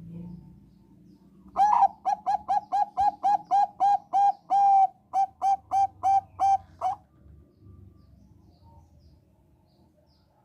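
Zebra dove of the Thai 'bangkok' strain singing: a run of about twenty short, quick cooing notes, roughly three or four a second, with a brief break about halfway through before the run ends.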